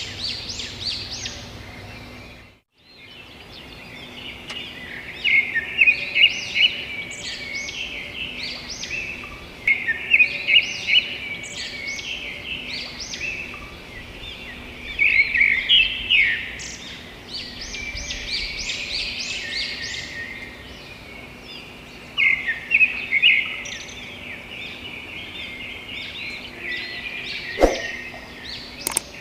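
A chorus of many birds chirping and trilling, calls overlapping densely. The sound drops out briefly about two and a half seconds in, and there is a sharp click near the end.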